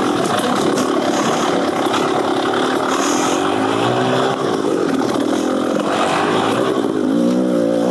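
Beta Xtrainer 300 two-stroke single-cylinder dirt bike engine with an FMF Gnarly exhaust, under riding load with the revs rising and falling several times, most clearly about four seconds in and again near the end.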